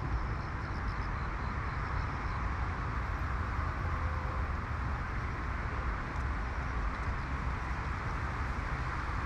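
Steady road-traffic rumble and tyre hiss, even throughout with no single event standing out.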